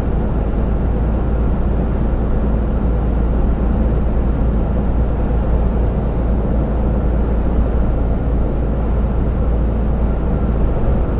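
Steady engine drone and road rumble of a lorry heard from inside its cab while driving at motorway speed.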